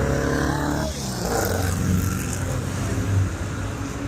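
Car engines running, with a louder rush of engine noise from about one to two and a half seconds in.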